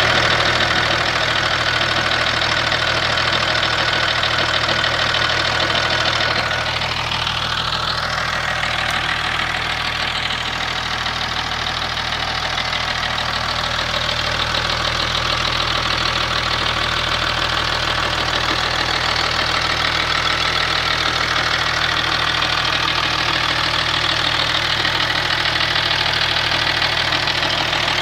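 Warm Opel Signum 3.0 CDTi V6 common-rail turbodiesel (Isuzu-built Y30DT) running steadily with a nervous, clacky ticking, which the owner suspects comes from valve clearance needing readjustment.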